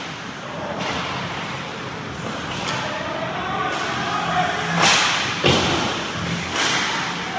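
Ice hockey play heard from rinkside: several sharp knocks and scrapes of sticks, puck and skates over the noise of the rink. The loudest comes about five seconds in.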